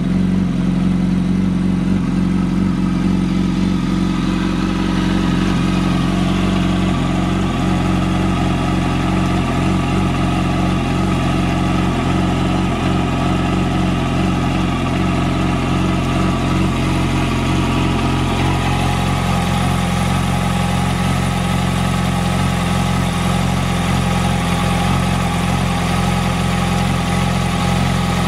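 Yamaha R1 inline-four sport-bike engine idling steadily through a Two Brothers aftermarket exhaust, its note shifting slightly about two-thirds of the way through.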